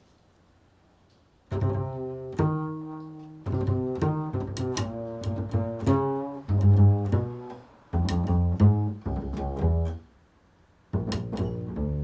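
Improvised solo double bass played pizzicato: phrases of plucked notes that ring and fade, with a short pause near the end before a last note is left ringing.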